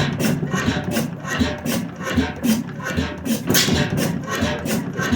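1898 Crossley hot-tube-ignition gas engine running, with a steady mechanical clatter of about four sharp clicks a second and heavier low thuds in between.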